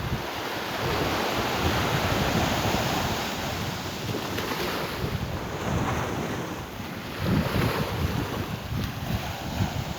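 Wind buffeting the microphone in gusts over a steady rush of sea water.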